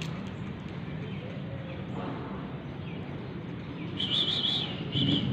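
Low steady background rumble, then from about four seconds in, small birds chirping in quick, repeated high notes.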